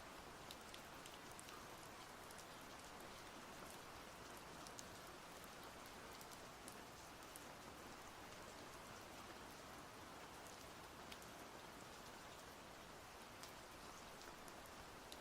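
Steady, quiet rain, with scattered small drop ticks.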